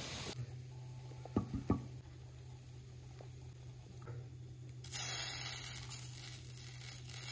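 Hot oil sizzling around potato fries in a wok, cut off abruptly. Then a quieter stretch with a steady low hum and a couple of soft knocks, until a louder sizzling hiss starts about five seconds in, from burger buns and patties in a hot flat pan.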